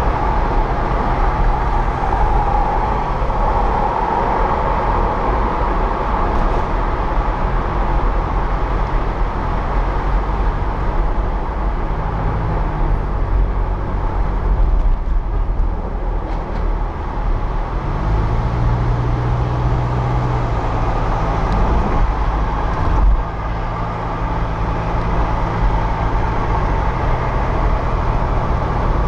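A car driving through city traffic: steady road and engine noise. A low engine hum grows stronger and holds for several seconds past the middle, and there is a single brief thump late on.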